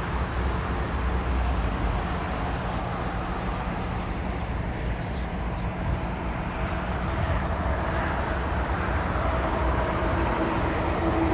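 Jet airliner engines rumbling steadily, with a low drone and a higher whine coming in and growing louder over the last few seconds.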